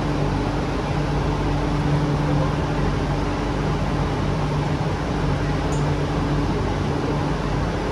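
Steady cabin noise inside an MTR Island Line Q-Train carriage, with a low even hum from the train's equipment.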